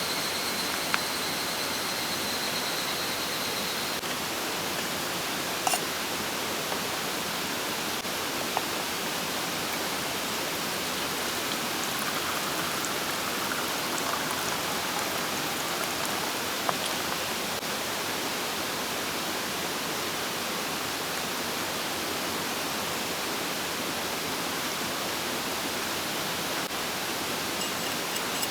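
Mountain stream rushing steadily, with a few faint sharp clicks scattered through it. A high, even trill runs over the water and stops about four seconds in.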